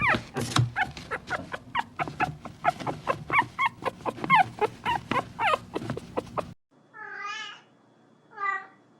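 A dog whining and yelping in quick, short, falling cries, several a second, for about six and a half seconds, as if protesting. It then cuts off and a cat meows twice.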